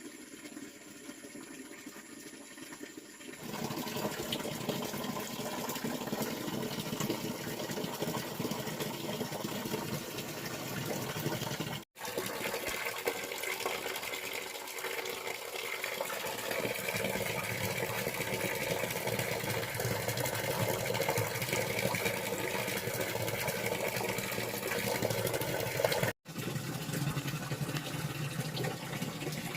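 Running water pouring steadily, starting about three and a half seconds in, with two brief dropouts.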